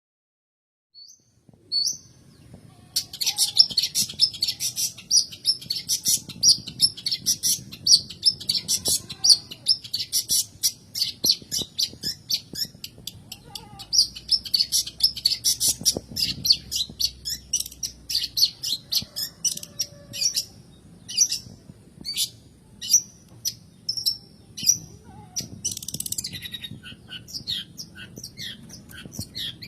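Long-tailed shrike (cendet) singing: after a near-silent first second or two, a fast, dense chatter of high repeated notes sets in about three seconds in, then loosens into more widely spaced chips in the second half.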